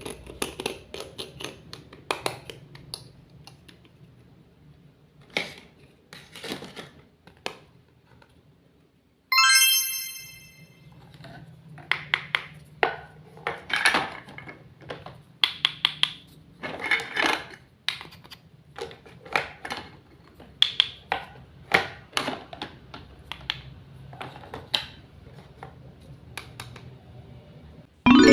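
Small utensils and miniature dishes tapping, clicking and clinking in irregular handling sounds. About nine seconds in, a single bright chime rings out and fades.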